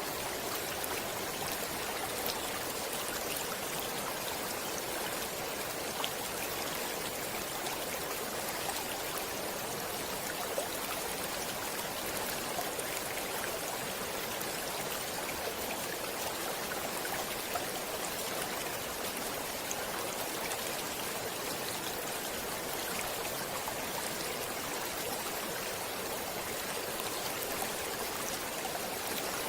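Stream water flowing in an even, steady rush, with a few faint splashes here and there.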